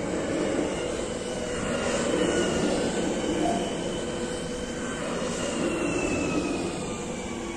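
Electric passenger multiple unit passing a level crossing: a steady rumble of wheels on rail with a motor whine that slowly falls in pitch, easing off near the end as the last car clears the crossing.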